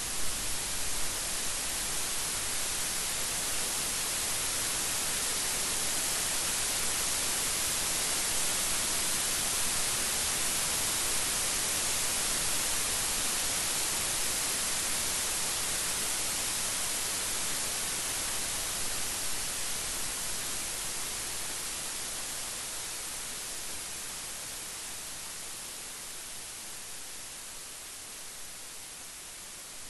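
Steady rain falling, an even, bright hiss that eases slightly over the last several seconds.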